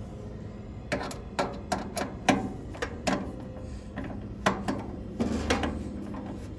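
Irregular sharp clicks and knocks of hand tools and metal parts being handled, about a dozen from about a second in, over a steady low hum.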